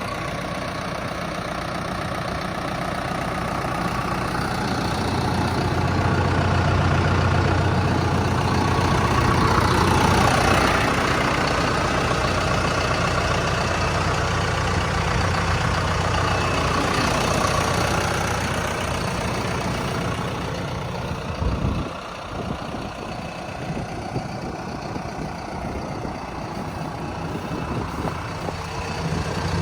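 John Deere 6115D tractor's diesel engine running steadily. It grows louder through the first third, then gives a short sharp clunk about two-thirds through. It runs quieter after the clunk and picks up again at the very end.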